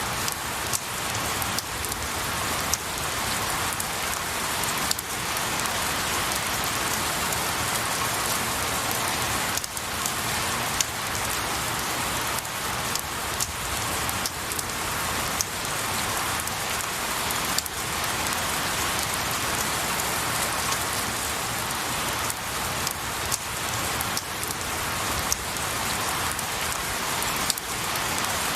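Steady rain falling on pine needles and trees, a dense even hiss with scattered sharper drop ticks.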